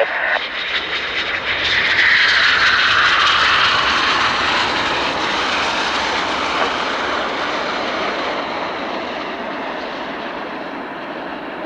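Eurofighter Typhoon jet noise, swelling about two seconds in, then fading slowly with its pitch falling as the jet passes.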